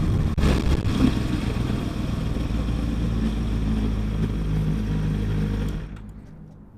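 Kawasaki ZX-6R 636 inline-four motorcycle engine running steadily under a haze of noise, then falling away over about a second near the end.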